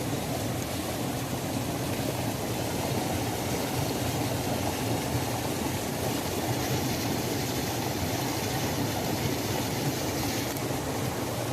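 Waterfall: falling water rushing in a steady, even stream of noise.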